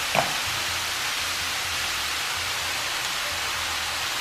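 Ground meat, cauliflower rice, peppers and canned diced tomatoes sizzling steadily in a hot black skillet, an even frying hiss.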